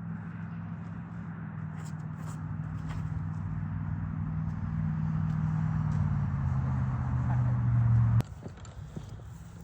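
A motor running with a steady low hum that grows louder and drops in pitch, then cuts off abruptly about eight seconds in.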